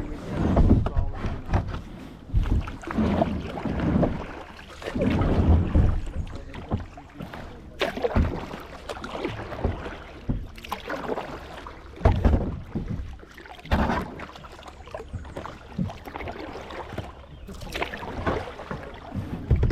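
Kayak paddling: paddle strokes dipping and splashing in the water in a loose rhythm, with wind buffeting the microphone and a few sharp knocks in the second half.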